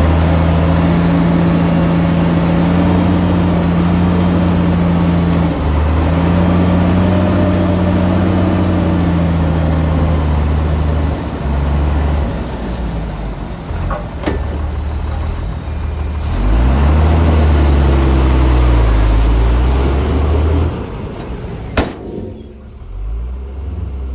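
Heavy diesel engine of a dump truck or bulldozer working, its pitch dipping and climbing as it is revved up and eased off. It drops to a quieter running near the end, with one sharp click shortly before.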